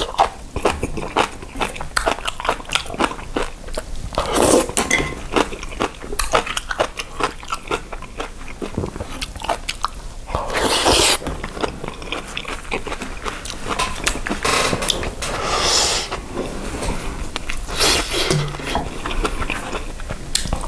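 Close-miked mouth sounds of eating: chewing and crunching spicy cabbage kimchi with rice, many small wet clicks, and a few louder noisy stretches.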